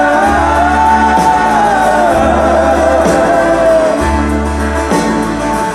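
A band playing a country ballad: one long sung note, bending slowly, held for the first few seconds over guitar and a steady bass line.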